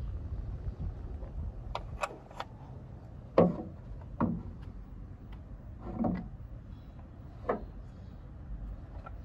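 A series of sharp clicks and knocks, about seven spread irregularly over several seconds, from hand work on a car tail light and its fittings. The loudest knock comes about three and a half seconds in, over a steady low rumble.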